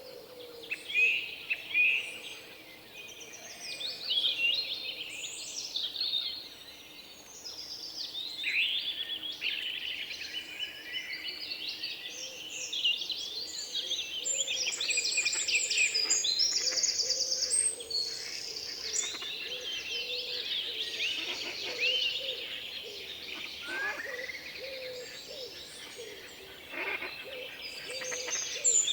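Several small songbirds chirping and singing at once, with many overlapping quick chirps and rapid trills that keep up throughout and grow busiest about halfway through.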